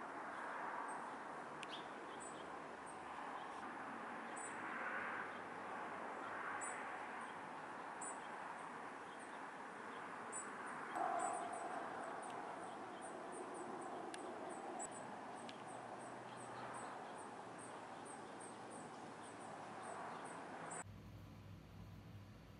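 Outdoor ambience of a steady hiss with a small bird's short, very high chirps repeating, often in quick pairs, and one brief louder sound about eleven seconds in. Near the end it cuts to quiet room tone.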